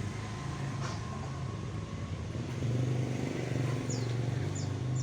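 A motor vehicle engine running steadily with a low hum, with a few brief, faint, high falling chirps.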